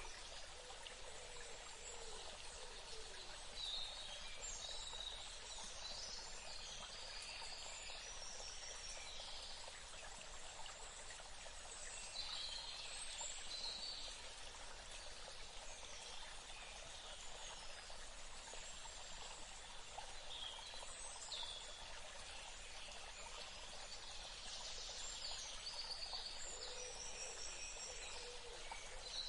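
Forest ambience: a steady soft hiss of running water, with birds calling in short bursts of high chirps about four times.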